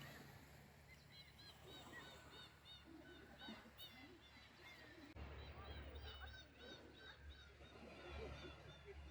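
Faint calls of many birds, short chirping notes repeating and overlapping, over a low rumble that grows stronger about halfway through.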